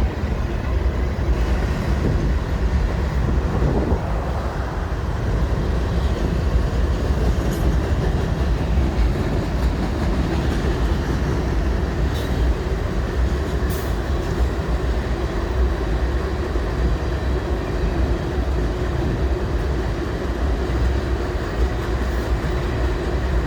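Freight train cars rolling past, a steady low rumble of wheels on rail that holds at an even level throughout.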